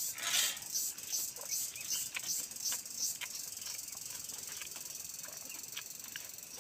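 Close-up eating sounds: soft rhythmic chewing, about three smacks a second, that fades out a little past halfway, with scattered small clicks of fingers mixing rice and curry on a metal plate.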